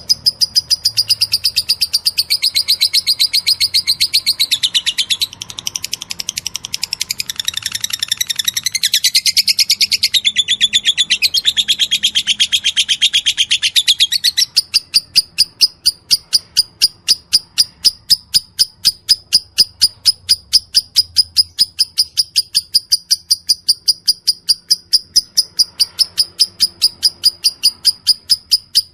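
Lovebird chattering in a long, fast, high-pitched run of chirps. About halfway through, the dense chatter gives way to a steady series of sharp single chirps, about three a second.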